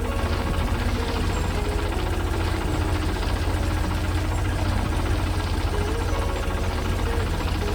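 Heavy machine engine running with a steady low drone, with short higher notes stepping up and down above it.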